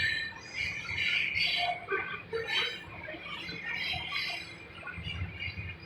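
Long freight train rolling past: a steady low rumble with scattered high squeaks and rattles.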